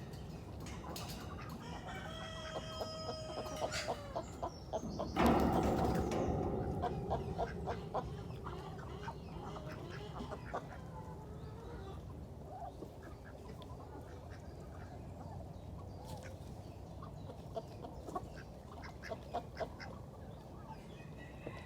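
Chickens clucking, with a drawn-out call about two seconds in and a loud, louder-than-all-else burst about five seconds in.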